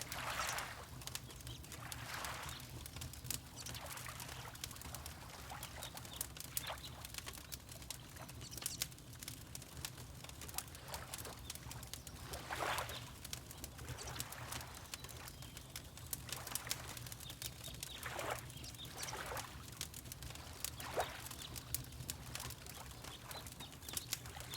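Fireplace crackling with scattered sharp pops, over soft swells of water lapping every few seconds and a steady low rumble.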